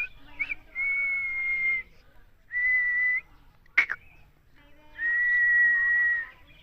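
A puppy whining in three long, steady, high-pitched whines of about a second each, with a sharp click between the second and third.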